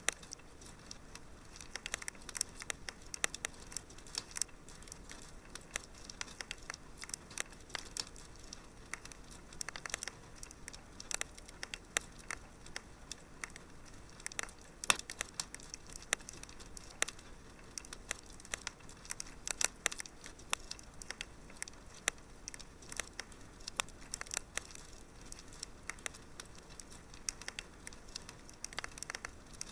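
Wood fire crackling in a fireplace: a steady run of irregular sharp pops and snaps, some louder than others, over a faint hiss.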